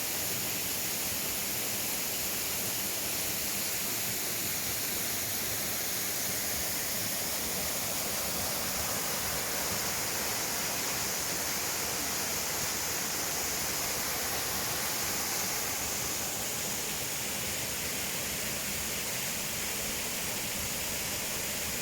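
A tall waterfall running: a steady, even rush of falling water.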